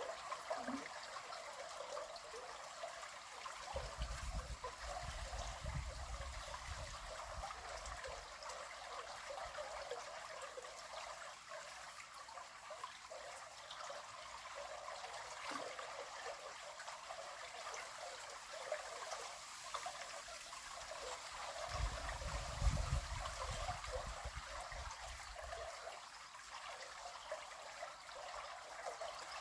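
River water flowing and trickling steadily. Two low rumbles, each a few seconds long, come in about four seconds in and again past the middle.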